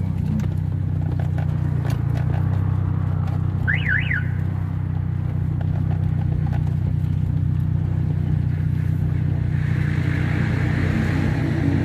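Car engine running steadily, heard from inside the cabin as a continuous low hum. About four seconds in, a short high chirp rises and falls twice.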